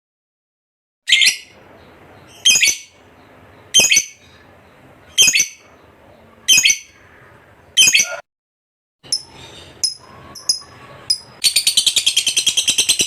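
Lovebird calling: six separate sharp, high calls about a second and a half apart, then a few faint short chirps, then, near the end, a long rapid chattering trill, the 'ngekek' song prized in fighter lovebirds.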